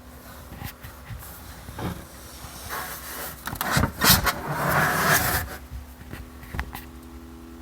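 Steady low hum from a switched-off 2020 Toyota Corolla, a sign that something inside the car is still running. A few seconds of loud rustling and knocks cover it midway.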